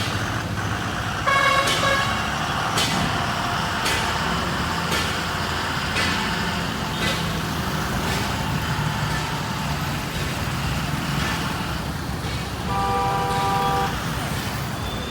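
Heavy truck engine running, with the horn sounding twice: a short blast about a second in and a longer, steady multi-tone blast near the end.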